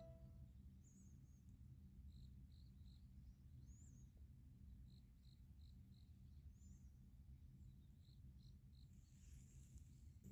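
Near silence: a faint low background rumble with faint short high chirps repeating about twice a second in runs.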